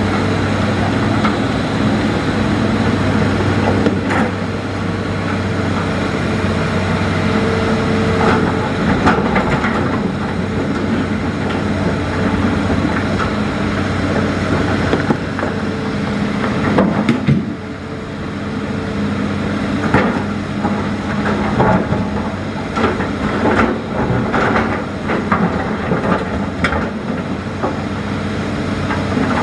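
Hitachi Zaxis hydraulic excavator's diesel engine running steadily, with repeated short clanks and knocks from the bucket working stones and gravel, coming thicker in the second half.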